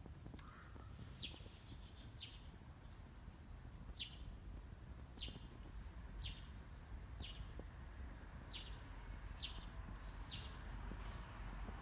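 A bird calling over and over, short high notes that sweep sharply downward, about one a second, with a few shorter chirps between them.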